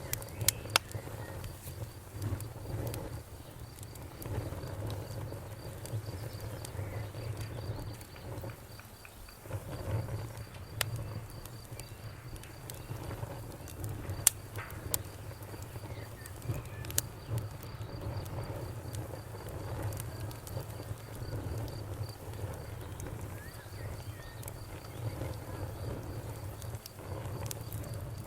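Wood fire crackling, with sharp pops scattered every second or so over a low steady rumble, while crickets chirp in a steady high pulsed trill that pauses briefly now and then.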